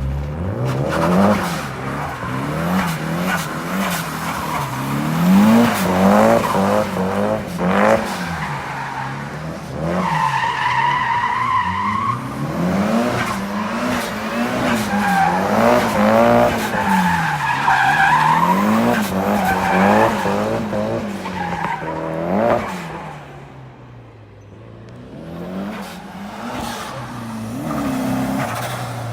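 Drift car's engine revving hard and falling back again and again, about once a second, as the car slides, with tires squealing in long stretches. The engine eases off briefly near the end before building again.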